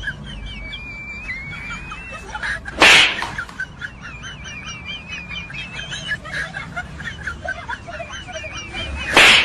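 Continuous quick, high, wavering chirping, like small birds. Two loud short bursts of hissing noise break in, about three seconds in and again near the end.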